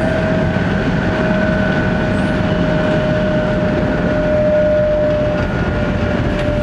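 Cabin running noise of a 700 series Hikari Rail Star Shinkansen at speed: a steady rumble and rush, with a steady whine that sinks very slightly in pitch.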